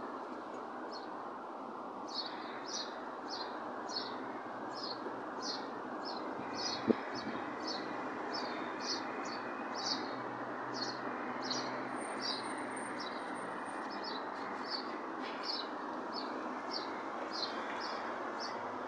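A bird chirping over and over, short high chirps about twice a second, over a steady hum of background noise. A single sharp click about seven seconds in.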